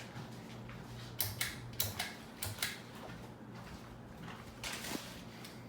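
Montgomery ceiling fan running with a steady motor hum, with a few sharp, irregular clicks over it.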